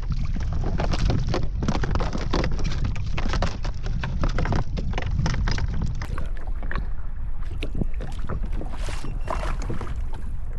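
Wind buffeting the microphone over water splashing and slapping against a kayak's hull in many short bursts, which thin out after about six seconds.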